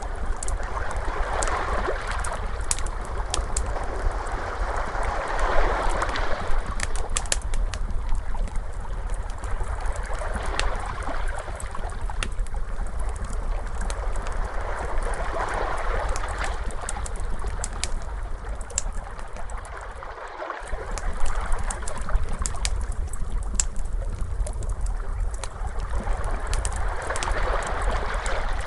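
Ocean waves washing in and receding in slow swells every five or six seconds, mixed with the sharp crackles and pops of a wood fire. A low, steady rumble runs underneath, with a brief dip about two-thirds through.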